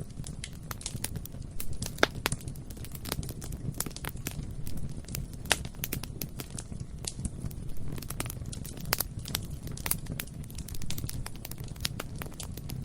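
Bonfire burning: a steady low rumble of flames with irregular crackles and sharp pops of burning wood, the loudest pops about two seconds in and again about five and a half seconds in.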